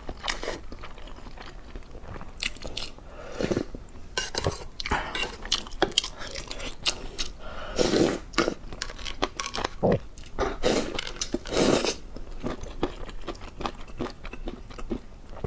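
A person biting and chewing crunchy food close to the microphone: a string of irregular crackling crunches.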